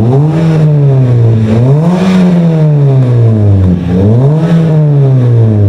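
Fourth-generation Toyota Vios's four-cylinder engine revved three times through a freshly fitted stainless bolt-on exhaust with the resonator deleted, each rev rising quickly and falling away more slowly. The exhaust note is loud and full but not raspy.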